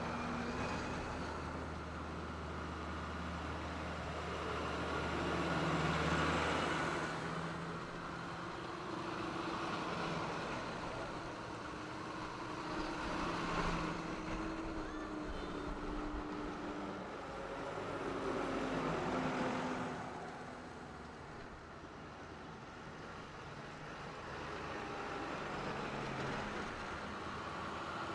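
Tractor engines running as a procession of tractors drives by, the sound swelling and fading about four times as machines pass.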